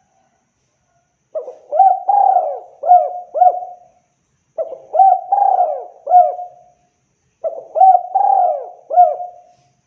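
Spotted dove (tekukur) cooing: three phrases, each of about five short notes, with a pause of about a second between phrases.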